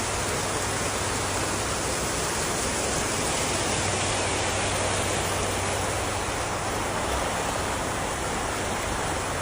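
Steady rush of fast-flowing floodwater from a monsoon flash flood, an even hiss with no breaks.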